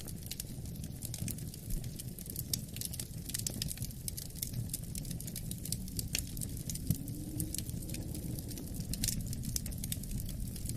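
Wood fire crackling in a fireplace, with frequent sharp irregular pops and snaps over a steady low rumble of wind.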